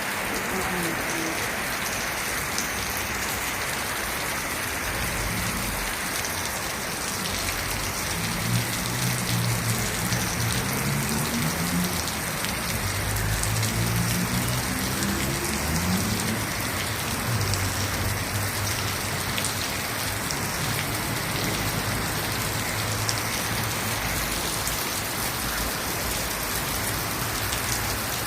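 Heavy rain falling steadily, a dense even hiss of drops on surfaces. Through the middle stretch a low hum rises and falls in pitch under the rain.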